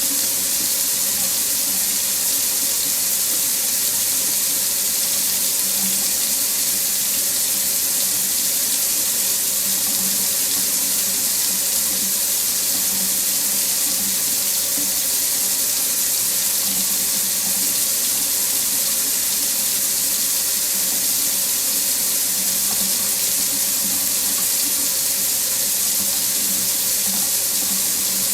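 Water running steadily from a faucet into a sink, an even hiss with no change throughout.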